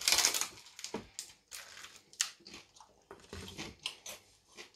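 A person biting into and chewing crunchy food close to the microphone: irregular, crackling crunches, the loudest right at the start.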